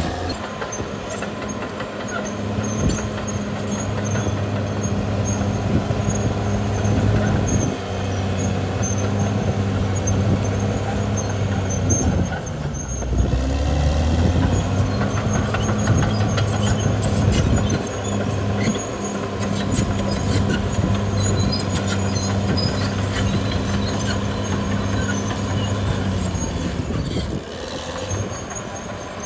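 Caterpillar D6R XL bulldozer's diesel engine running steadily under load, its note sagging briefly a few times and picking back up, with frequent clanks from the steel tracks.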